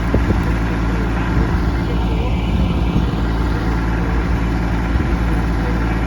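Kubota tractor's diesel engine running steadily while working the ground with a disc harrow.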